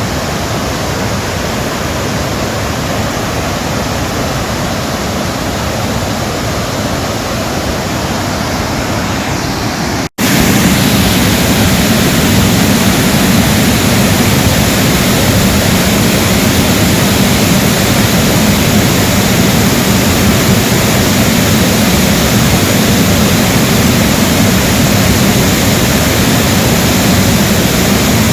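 Waterfall at the Pradillo Dam: a steady, loud rush of falling water. About ten seconds in it cuts out for an instant and returns louder.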